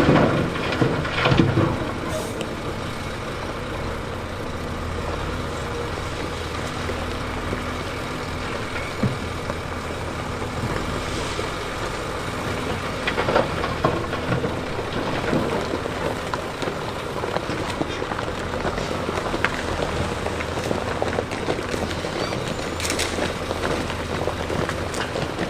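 Diesel engine of heavy earthmoving machinery running steadily. A few louder knocks come near the start, about halfway and near the end.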